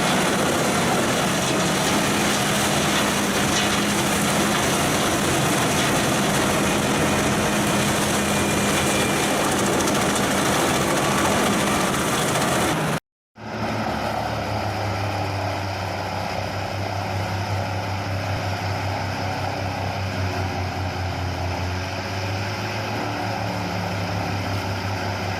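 Heavy wood-chipping machinery running steadily, a dense grinding engine noise. It cuts off abruptly about halfway through, and after a moment's silence a different deeper, steady engine drone takes over.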